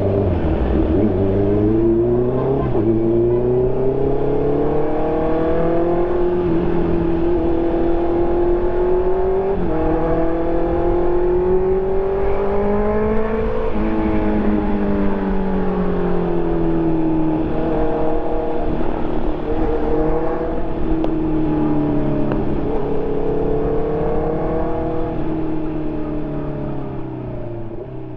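2020 Honda CB650R's inline-four engine through an SC Project exhaust while riding: the engine note climbs and falls in pitch several times as the bike accelerates, shifts and eases off, and fades out near the end.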